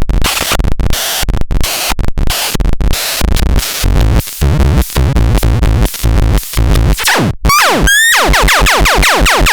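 A miniature drum synthesizer plays noisy electronic percussion hits in an uneven rhythm. About seven and a half seconds in, it switches to a fast run of falling zaps, several a second.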